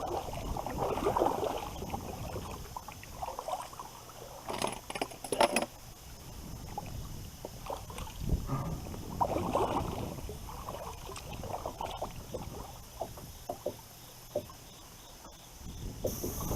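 Irregular knocks, clicks and rustling from a plastic Sun Dolphin Journey 10 SS kayak and the gear aboard it, with a few sharper clicks about five seconds in.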